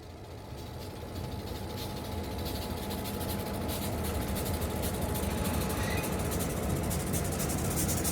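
Riding noise from an e-bike on the move: wind buffeting the microphone over a low rumble of tyres on the trail, growing louder through the first few seconds, with a faint thin steady whine that fades out near the end.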